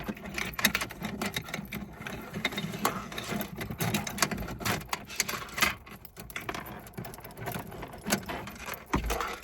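Keys and a small metal chain clicking and rattling as they are handled: a dense, uneven run of small clicks.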